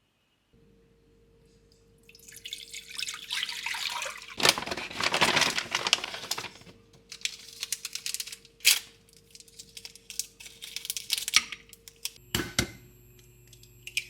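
Kitchen tap running into a sink in uneven spells, the water splashing as if food is being rinsed under it, over a faint steady hum. Near the end a sharp click, after which a different steady hum starts.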